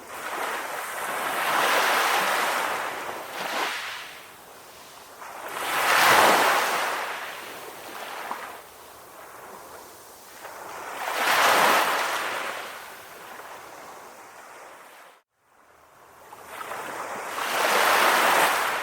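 Sea waves breaking and washing up the shore, the surf swelling and fading in four slow surges a few seconds apart. The sound cuts out for a moment about three-quarters of the way through.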